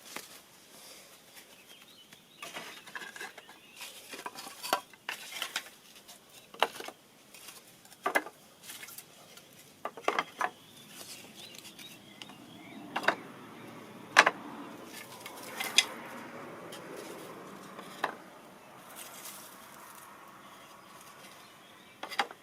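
Irregular clinks and knocks of hard objects being handled, a dozen or so scattered sharp clicks with the loudest about two-thirds of the way through.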